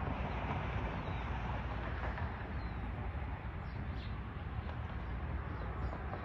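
Steady outdoor background noise, mostly a low rumble, with a few faint short bird chirps.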